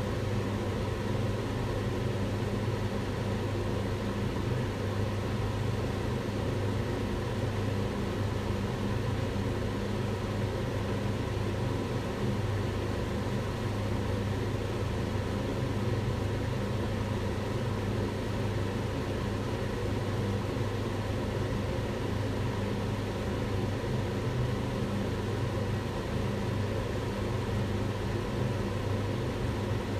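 Kitchen range hood fan running steadily: an even rushing noise with a low, constant motor hum.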